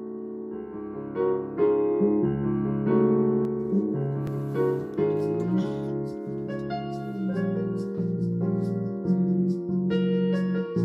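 Background piano music: a slow melody of sustained notes over low chords.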